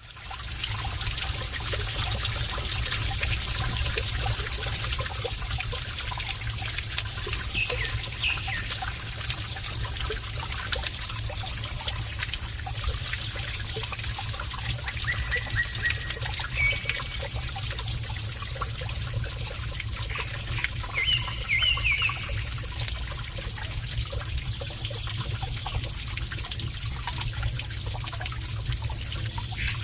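Water trickling and pouring steadily over a low steady hum, with a few brief faint chirps.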